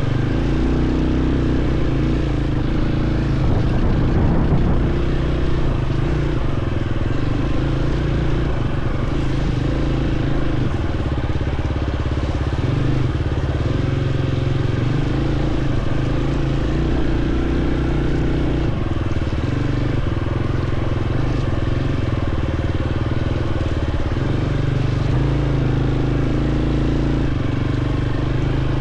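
Dirt bike engine running steadily while riding, its pitch shifting up and down every few seconds with the throttle.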